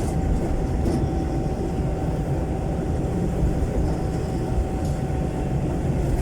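Jeepney's Isuzu 4BC1 four-cylinder diesel running under way through a very loud open exhaust, heard from the passenger cab: a steady low drone with a constant thin whine over it.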